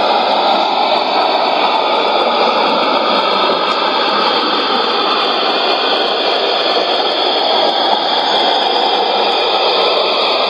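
Shortwave receiver (Sony ICF-2001D) tuned to 5905 kHz, putting out a loud, steady hiss-like noise with no speech in it, the strange test signal on the frequency, cut off above and below by the receiver's audio passband.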